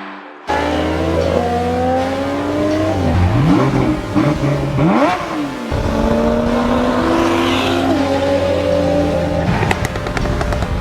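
Car engines revving and accelerating, their pitch climbing and falling repeatedly. The sound starts abruptly and changes suddenly partway through.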